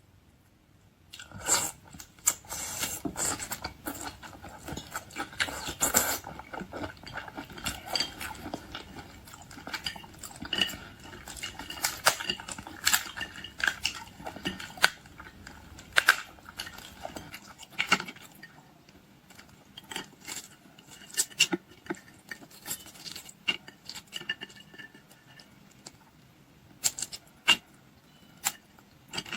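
Eating at a table: irregular clicks and knocks of utensils against dishes, with handling of food and some chewing. The sounds start about a second in and grow sparser in the second half.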